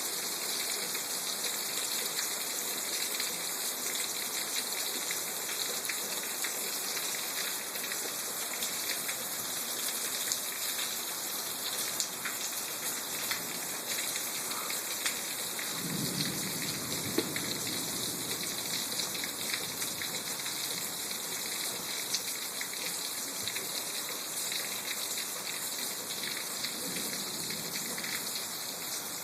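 Steady rain falling, with scattered drops ticking close by. About halfway through, a low rumble of thunder rolls for a few seconds, and a fainter one follows near the end.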